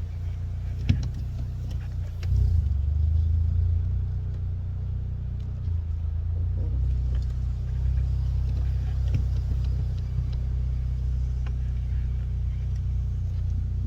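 2016 Hyundai Elantra GT's four-cylinder engine running at low revs as the car creeps slowly along, a steady low hum that gets louder about two seconds in. The engine has a rod knock, which is not too bad at these low revs.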